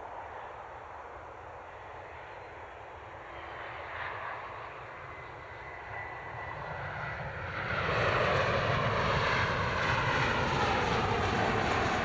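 Jet airliner's engines, a steady roar that grows louder and rises sharply about eight seconds in as the aircraft comes close.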